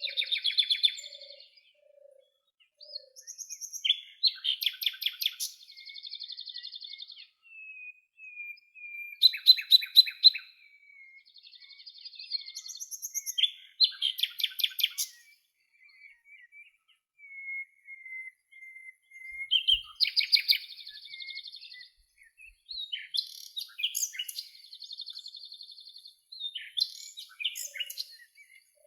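Songbirds singing: rapid trilled and chirping phrases every few seconds, with a thin drawn-out whistle in the middle and a faint lower call repeated near the start and end.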